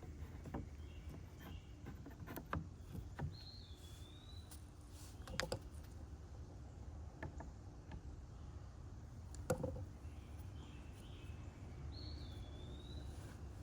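A bird gives the same short call twice, about eight seconds apart: a quick note that jumps up and then slides down. Under it are a faint low rumble and a few scattered light knocks and taps, the sharpest about two thirds of the way through.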